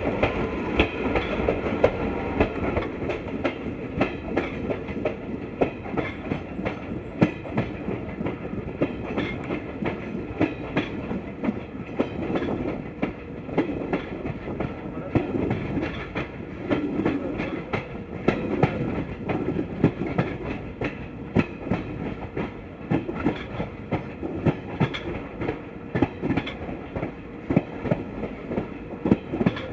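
Broad-gauge passenger express coach rolling along the track: a steady running rumble with frequent, irregular clicks and clatter from the wheels passing over the rails and joints.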